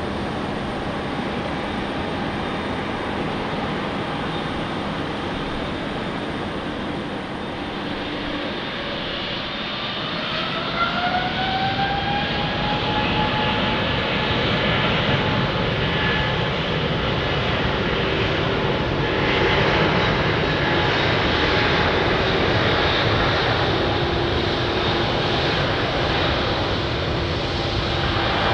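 Jet airliner engines running with a steady rush. About ten seconds in, a rising whine shows the engines spooling up to higher thrust, and the sound then holds louder, with a steady whine over the roar.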